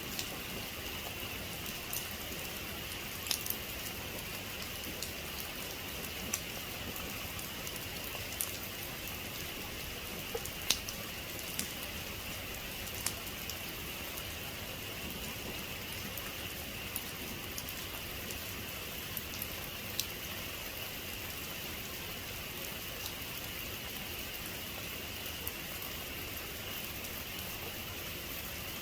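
Heavy rain falling steadily, with scattered sharp drops hitting a hard surface.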